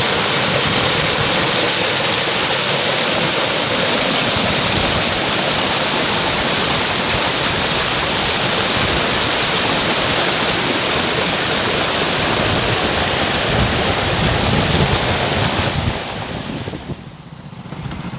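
Floodwater rushing steadily in a loud, even hiss, then dropping off sharply near the end.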